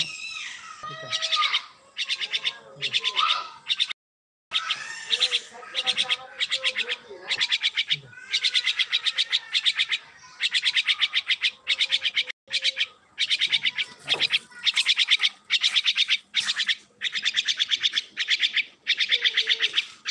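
Bird giving rapid chattering trills, repeated in bursts about a second long with short gaps between them, and a few lower whistled notes.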